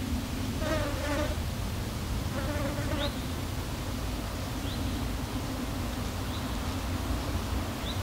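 Flying insects buzzing: a steady wing hum, with a higher, wavering buzz passing close twice in the first three seconds. Short, faint rising bird chirps come every second or two.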